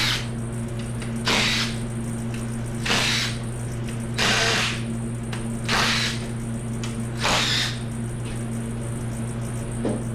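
A ratchet working the oil pan bolts off a Ford 5.4 2V V8, in six short bursts about a second and a half apart, over a steady low hum.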